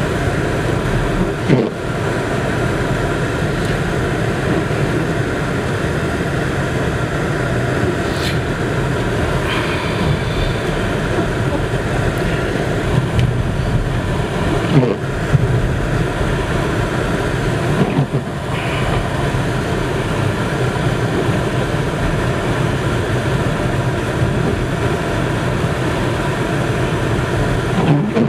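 Steady engine and tyre rumble inside a car's cabin while driving on snow-covered roads, with a few brief knocks here and there.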